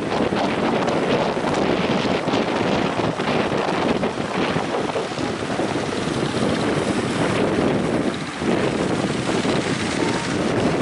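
Strong wind buffeting the microphone over the steady noise of heavy surf breaking at a river mouth to the sea.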